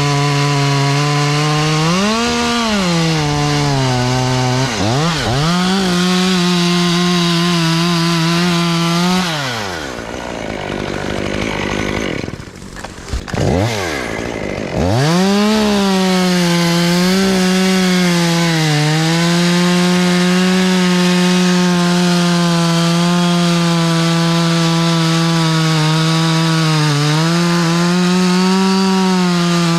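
Chainsaw running at high revs through a cut, its pitch sagging and recovering under load. About ten seconds in it drops back to idle for a few seconds, then revs up again and runs steadily on.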